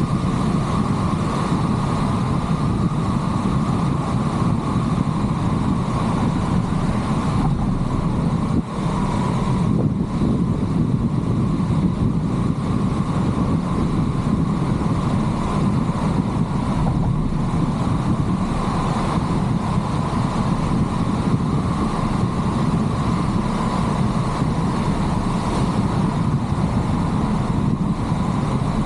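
Car driving on a road: steady engine and tyre noise that holds even throughout, with a brief dip about eight and a half seconds in.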